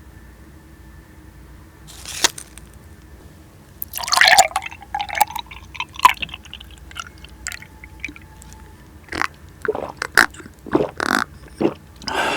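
Close-miked handling of soft cheesecake: a run of short, wet squishing sounds and clicks, starting about two seconds in.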